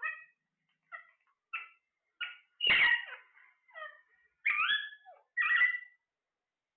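Parrot giving a series of short squawks and chirps, about eight separate calls with brief gaps, some sweeping upward in pitch; the loudest calls come a little before halfway and in the second half.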